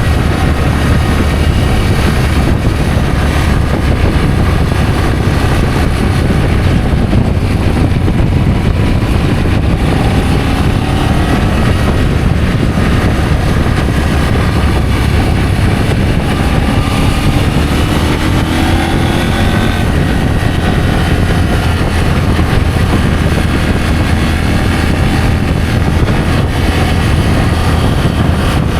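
Adventure motorcycle engine running steadily while riding, its pitch rising and falling slightly for a while in the middle.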